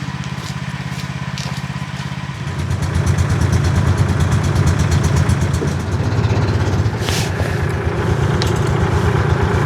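Four-wheeler (ATV) engine running, getting louder about two and a half seconds in as it is throttled up and pulls away.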